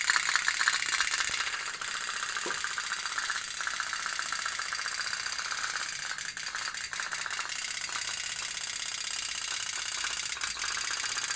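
Toy pop-pop (otok-otok) steam boats putt-putting: a fast, steady rattle of pops from their boilers, heated by small oil burners.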